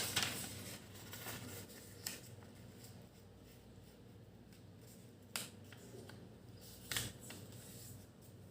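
A square sheet of origami paper being handled and folded in half for the first creases, with a few sharp paper crackles: at the start, near two seconds, about five seconds and about seven seconds.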